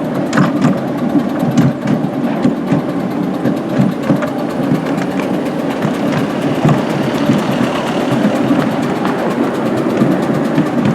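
A miniature railway locomotive's engine running steadily with a low, rough chugging.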